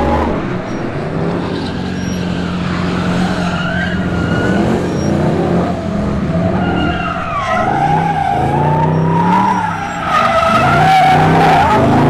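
Car tires squealing against the pavement, a wavering, shifting screech over a car engine running hard.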